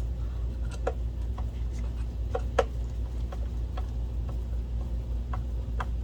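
Screwdriver turning a screw into a projector's plastic housing: irregular small clicks and ticks, a few a second, with one louder click about two and a half seconds in, over a steady low hum.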